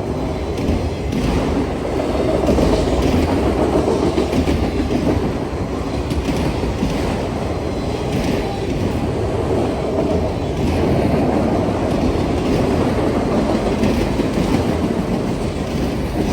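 CSX freight train rolling past, a long run of cars going by steadily.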